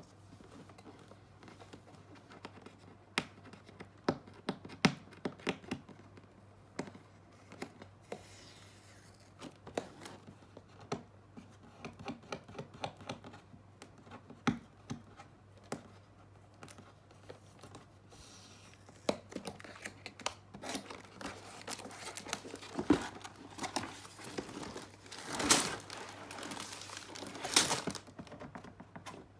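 Hands handling LEGO: plastic crinkling and tearing, with many irregular clicks and rattles of small plastic bricks, busier in the second half.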